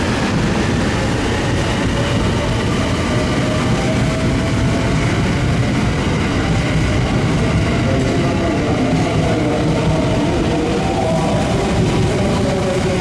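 Electric train running at the station: a steady rumble with whining motor tones that drift in pitch.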